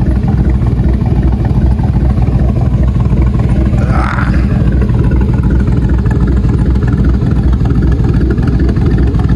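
Chevy Tahoe's V8 idling with a steady low rumble, with a brief higher sound about four seconds in.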